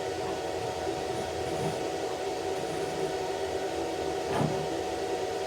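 Steady hum and fan noise from a welding machine left running, with one short knock about four seconds in.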